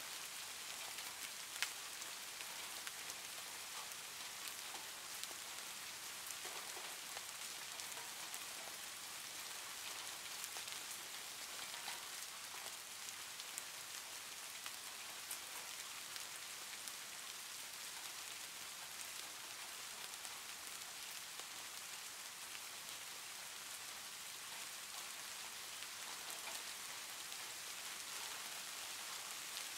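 Soft rain ambience: a steady hiss of light rain with faint scattered drops. A single sharp click sounds about a second and a half in.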